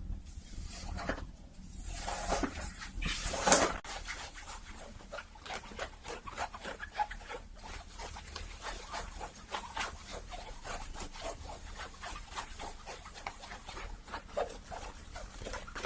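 Close-miked ASMR scratching and rustling. A few louder brushing swishes in the first four seconds give way to a long run of quick, fine crackling scratches.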